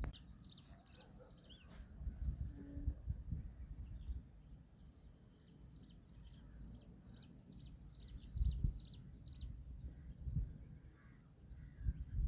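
Outdoor ambience: a run of short, high chirps repeating about two to three times a second, over a steady high whine and low rumbling gusts of wind on the microphone.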